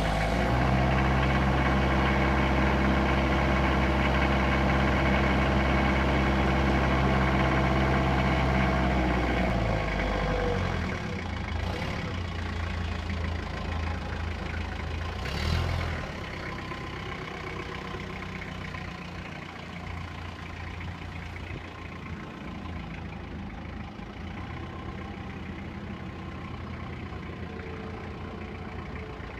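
A 3-ton forklift's Isuzu diesel engine running steadily at raised speed, then dropping to a quieter idle about ten seconds in, with one brief surge about halfway through.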